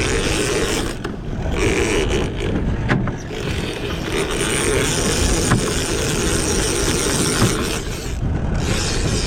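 Boat motor running at slow trolling speed under a steady wash of wind and water noise, with the hiss dropping out briefly twice.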